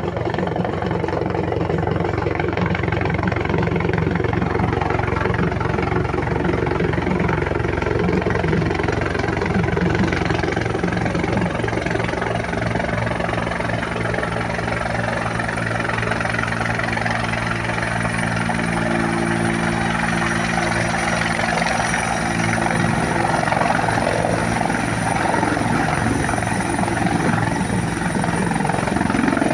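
Bell 212 helicopter running, its twin turboshaft engines and two-bladed rotor making a steady loud drone with a thin, high, steady whine.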